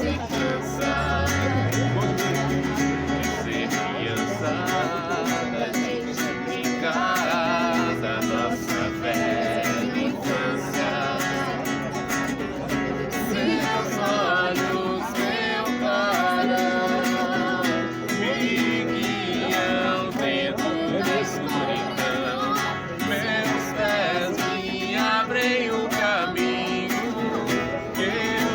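Acoustic guitar strumming with some singing.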